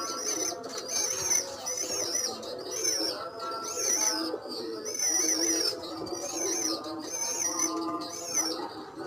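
Domestic pigeons cooing, over a high, quickly repeating chirping figure.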